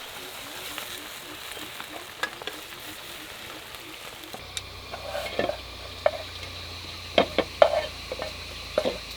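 Food frying and sizzling in a pan while it is stirred. From about halfway, sharp clinks and knocks of a utensil against the pan.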